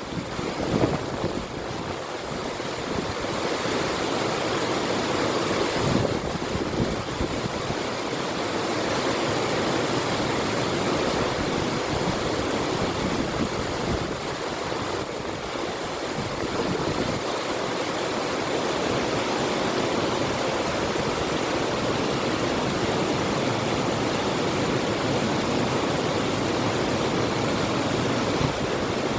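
River water rushing steadily, with wind.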